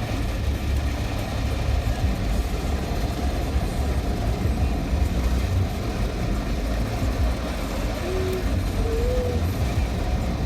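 Automatic car wash machinery running, heard from inside the car: a steady low rumble with an even hiss over it, and a couple of short faint squeaks near the end.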